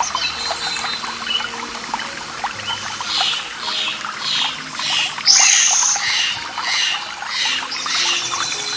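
Small birds calling over trickling water: from about three seconds in, a run of repeated high calls comes about twice a second, with one louder buzzy note in the middle.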